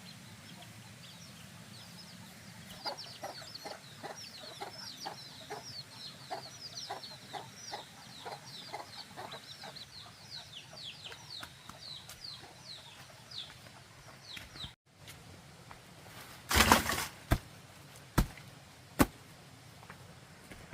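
Chickens calling in a quick series of short, falling chirps, a few a second, for about twelve seconds. After a break, a loud brief rushing noise and then two sharp clicks.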